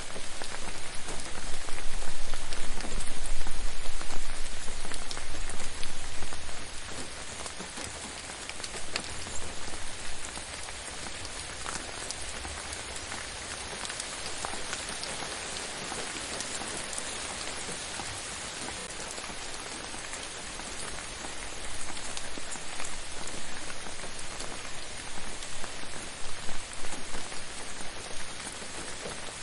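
Gentle steady rain falling on a surface, with a dense patter of individual drops. A low rumble swells the sound louder for the first several seconds and again near the end.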